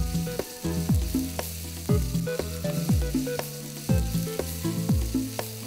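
Carrots, beans and capsicum sizzling in hot oil in a nonstick pan, stirred and scraped with a wooden spatula. Under it runs background music with a deep beat about once a second.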